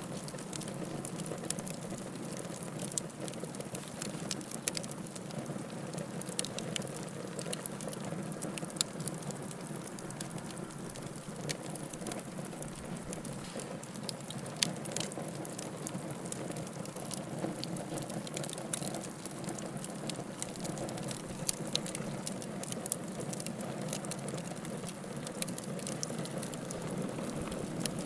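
Wood fire crackling in a fireplace: a steady low rush of burning logs with frequent sharp crackles and a few louder pops.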